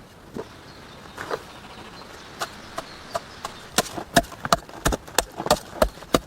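Hand tool chopping wood: a few scattered blows at first, then a steady run of sharp, louder strikes about three a second from about four seconds in.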